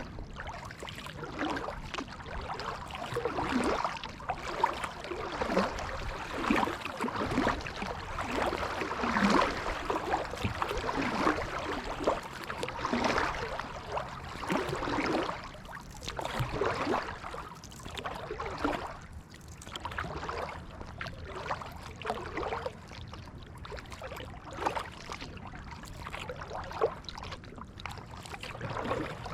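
Kayak paddle strokes in the water: repeated splashing and dripping as the blades dip and lift, with water trickling along the hull.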